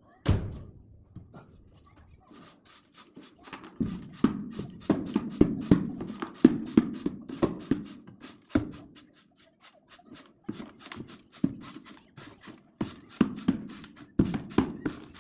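Split oak firewood logs clunking against each other as they are handled and stacked. There is a heavy clunk right at the start, then a run of quick wooden knocks several a second, then scattered single clunks.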